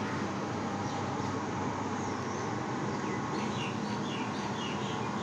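A bird chirping, a rapid series of short falling chirps starting a little past halfway, over a steady background of outdoor street noise.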